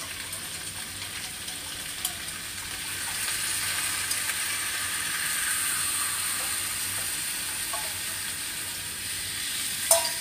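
Stir-fry sizzling in a hot wok as liquid is poured in from a metal bowl: a steady hiss that swells about three seconds in. A sharp clink near the end.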